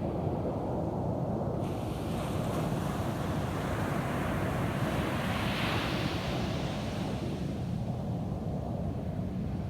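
Ocean surf washing onto a beach over a steady low rumble of wind on the microphone. A wave's hiss comes in sharply early in the second second, swells to its loudest around the middle and fades away near the end.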